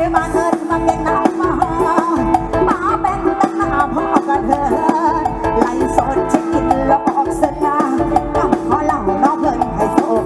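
Mor lam sing band playing an instrumental passage over the sound system: a steady held drone note under a bending melody, with a driving drum and bass beat.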